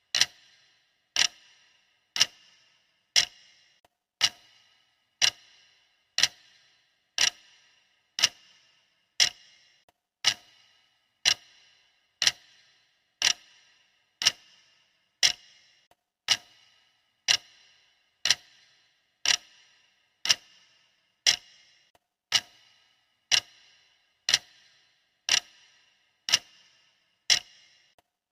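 Clock ticking steadily, one sharp tick a second, each with a brief bright ring: the countdown timer's ticking sound.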